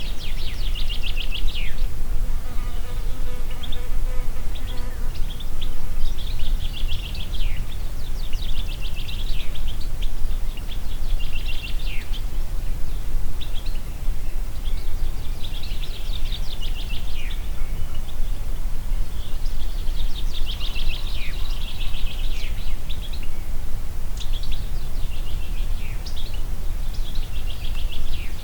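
Steady wind with a low rumble, and a songbird repeating short, high-pitched, rapidly trilled phrases every few seconds, several ending in a quick downward sweep.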